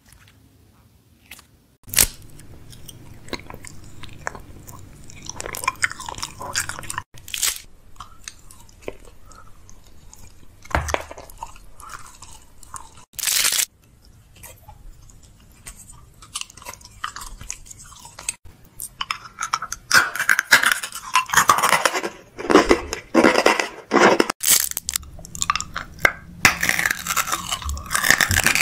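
Close-up mouth sounds of candy being bitten and chewed: crisp crunches and clicks, sparse at first and coming thick and fast in the last third.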